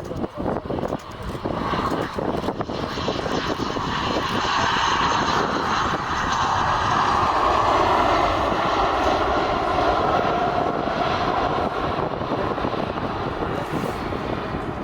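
Airliner engines passing close by, building to a peak about halfway through and then easing off, with the pitch dropping as the plane goes past.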